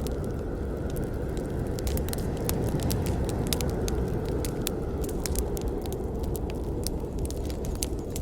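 Campfire burning with a steady low rumble of flames and many sharp crackles and pops from the wood, coming irregularly.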